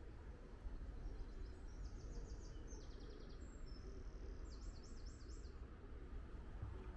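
A small songbird singing several quick, high-pitched trilled phrases over a steady low outdoor rumble.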